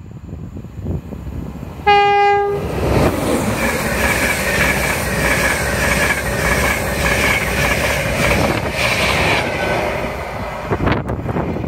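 Express passenger train sounds one short horn note about two seconds in, then passes close by at speed: a loud rush with a high whine over it, easing off near the end as it draws away.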